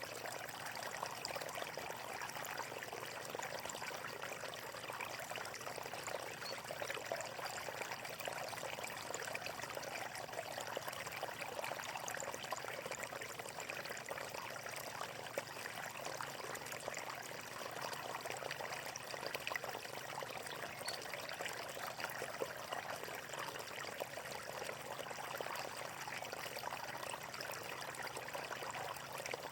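Flowing water running steadily, an even splashing and trickling that holds unchanged throughout.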